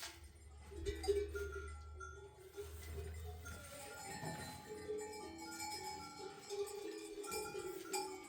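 Livestock bells on a herd of sheep and goats clinking and clanking, many bells at different pitches sounding irregularly as the animals move. A low hum runs under them for the first few seconds.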